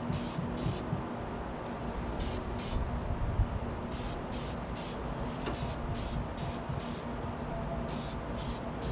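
Rust-Oleum aerosol can of black spray paint hissing in short bursts, two or three quick squirts at a time with brief pauses between the groups.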